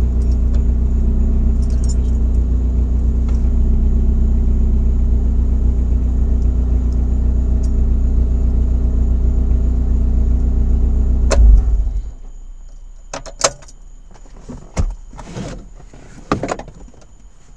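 Chevrolet S10's 2.2-litre four-cylinder running steadily through a Flowmaster 40 dual exhaust, heard inside the cab, with a slight exhaust leak near the stock manifold. The engine is switched off about two-thirds of the way through, ending with a thump. Keys jangle and click several times after that.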